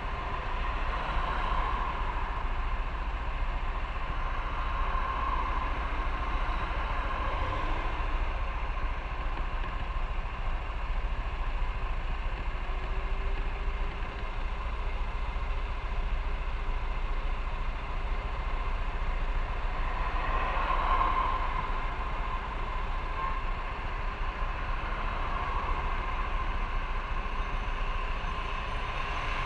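Motorcycle on the move: its engine running and air rushing past, a steady rumbling noise with no breaks.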